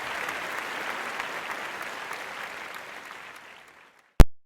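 Applause fading out over about three and a half seconds, then one sharp click near the end.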